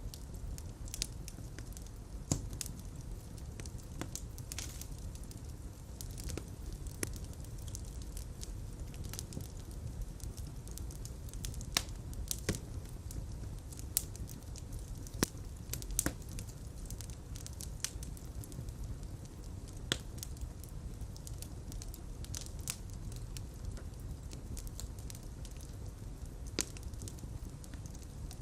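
Fire in a fireplace crackling: irregular sharp pops and snaps over a steady low rumble of flames.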